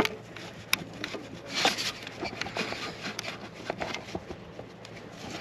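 Hand work on a car's EGR valve and its fittings: scattered small metallic clicks and knocks, with a longer scraping, rubbing stretch about one and a half seconds in, as the valve is worked loose.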